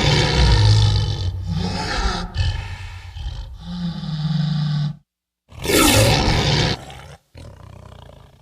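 Lion roar and growl sound effects: a long growling roar lasting about five seconds, then after a brief break a second, shorter roar that trails off into a quieter low growl.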